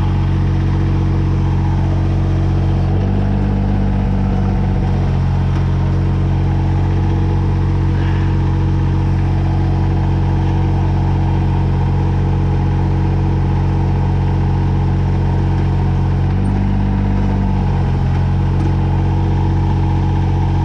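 2003 Kubota BX22 compact tractor's three-cylinder diesel engine running steadily. The engine note changes briefly twice, about three seconds in and again near the end.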